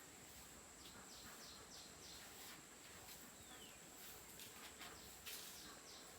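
Near silence: faint outdoor background with a few short bird chirps about a second in and a thin steady high tone.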